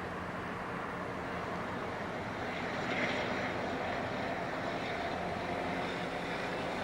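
Steady distant engine drone with a faint low hum, swelling slightly about halfway through.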